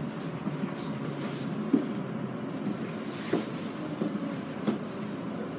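Running noise of an E217-series electric train heard from inside the car: a steady rumble with three sharp clacks about a second and a half apart.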